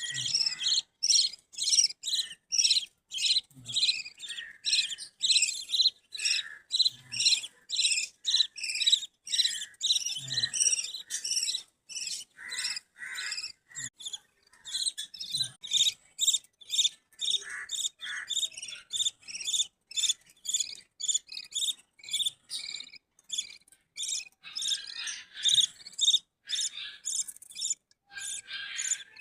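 Budgerigars chirping and chattering together, a continuous run of quick, high chirps several per second.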